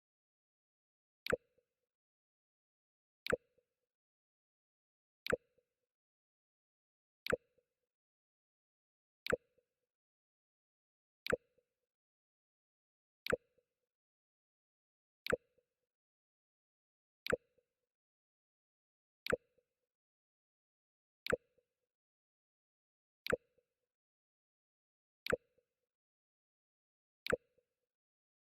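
The Mac OS X 'Jump' sound effect played on a loop: a short sharp click with a brief low pop, repeated every two seconds, fourteen times.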